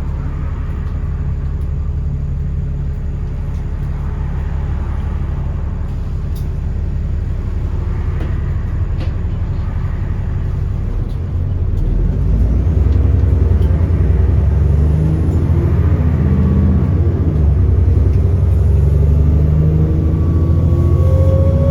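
Alexander Dennis Enviro400 bus's diesel engine heard from on board. It runs steadily at first, then gets louder about halfway through as the bus pulls away and accelerates, the engine note rising and falling as the transmission works through the gears.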